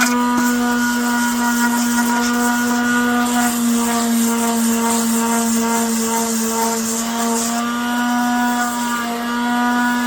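Electric palm sander running steadily with a high hum, sanding a resin-coated 3D-printed helmet; a hiss of abrasion runs through most of it. The hum sags slightly in pitch around the middle as the sander is loaded, and the hiss stops a couple of seconds before the end.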